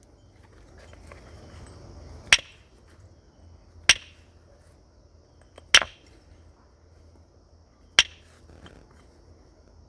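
Flint being knapped with a natural percussor: four sharp strikes about one and a half to two seconds apart, knocking flakes off a stone biface being shaped from a raw nodule.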